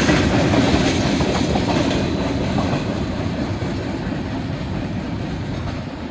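Freight train tank cars rolling on the rails. The sound fades steadily as the last cars move away.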